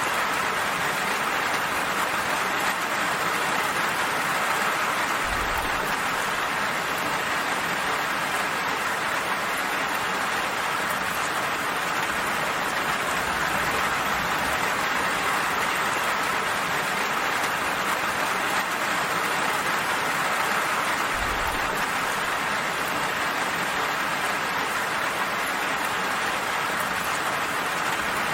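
Steady rain falling, an even hiss of drops with no breaks. Two brief low rumbles sound under it, about five seconds in and again near the end.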